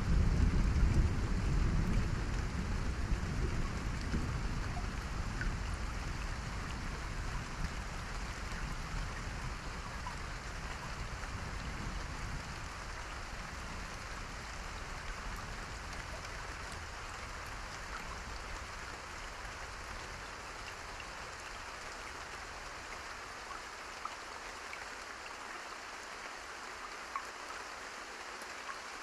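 Steady rain falling, with a low thunder rumble at the start that dies away over the first fifteen seconds or so, leaving the even hiss of the rain.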